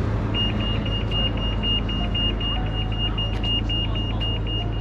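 Rapid high-pitched electronic beeping, about five beeps a second, starting about a third of a second in, over a steady low hum of road traffic.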